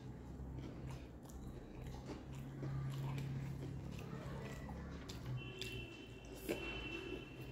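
Close-miked mouth sounds of a person biting and chewing a crispy fried pakora with rice eaten by hand, over a low steady hum, with a sharper click near the end.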